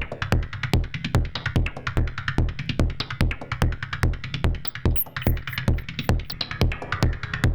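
Synthesized percussion loop from a Make Noise Shared System modular synth, built from oscillators, noise and envelopes: a steady four-on-the-floor kick about twice a second with fast 16th-note noise clicks over it, a techno-style beat.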